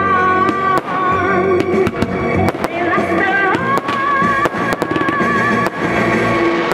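Fireworks going off over a music soundtrack: about a dozen sharp bangs and pops at irregular intervals, under long held, wavering melodic notes.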